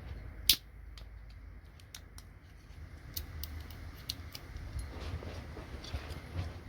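A sharp snap about half a second in, then scattered small clicks and taps of plastic and metal parts being handled as a computer connector is pulled apart by hand.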